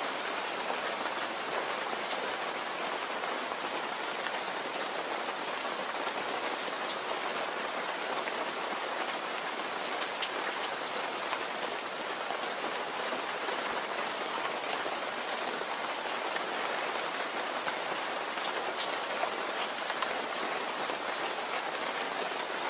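Steady rain falling and pattering on a surface, with individual drops audible.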